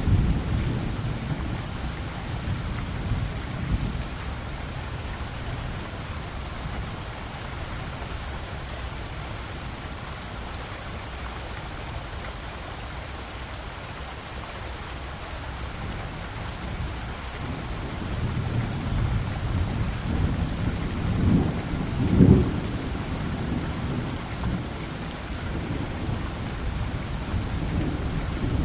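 Thunderstorm: steady rain falling, with rolling thunder rumbling low. The thunder dies away in the first few seconds, builds again about two-thirds of the way through with a sharp crack, and swells once more at the end.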